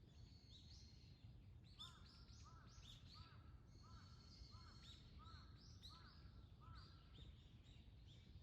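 Faint birdsong: several birds chirping high, and one bird repeating a short arched call about a dozen times, roughly two a second, from about two seconds in until near the end. A low, steady background rumble lies underneath.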